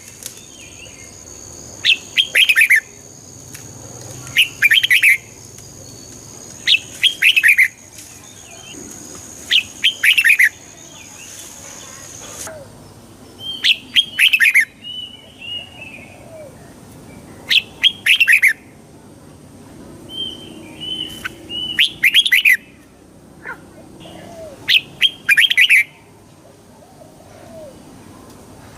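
Red-whiskered bulbul singing: a short, loud warbled phrase repeated about every two to three seconds, with softer chirps between the phrases. A steady high whine runs underneath and stops about twelve seconds in.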